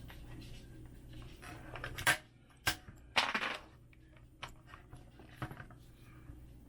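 Small hard objects being handled on a desk: a flashlight and a 3D-printed charge cord holder with its magnetic charger. A few sharp clicks about two seconds in, a short clattering scrape soon after, then fainter ticks.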